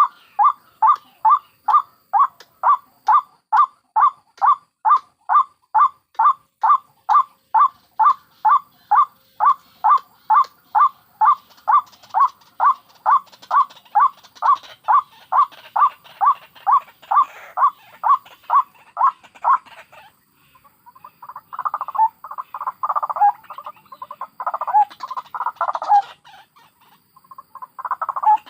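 White-breasted waterhen calls: a long, even series of short repeated notes, about two a second, which after some twenty seconds gives way to rougher, bunched chattering calls.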